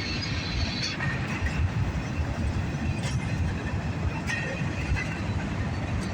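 Cars of a mixed freight train rolling past: a steady low rumble of wheels on rail, with a few sharp clanks.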